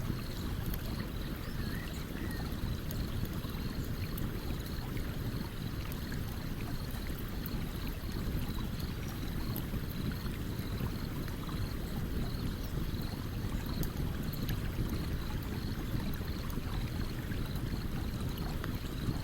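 Stream water running steadily beside a campfire, its low, even running the loudest sound, with light scattered crackles from the burning wood.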